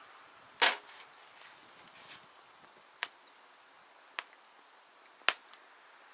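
Several sharp, irregular cracks of wood, loudest about half a second in and again near the end.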